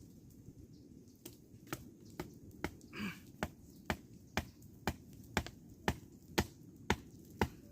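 Sharp, evenly spaced knocks, about two a second, starting just over a second in and mostly growing louder, with a brief voice-like sound partway through.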